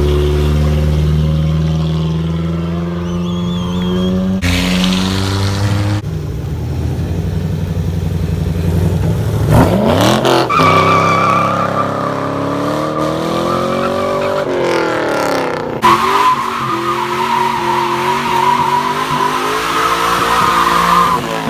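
A car burnout. The engine is held at steady high revs for several seconds, then its pitch swings up and down. From about halfway through, the tyres squeal in a long continuous screech, broken briefly once.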